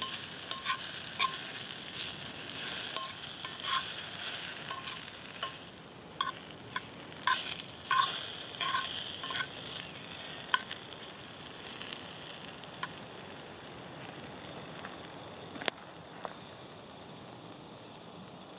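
Scampi, peppers and tomatoes sizzling in a cast-iron pan, with a steady hiss. For the first half, a utensil stirring the food clicks and scrapes against the pan; after that it is mostly a quieter sizzle, with one sharp click near the end.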